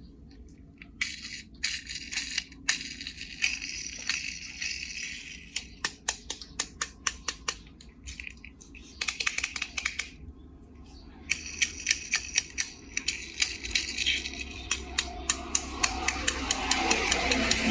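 Small die-cast toy cars and a plastic carry case being handled: rapid clicks and rattles, with two longer stretches of dense scraping rattle.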